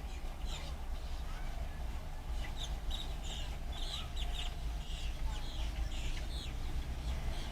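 Birds calling in a quick run of short, high chirps and clucks over a steady low rumble.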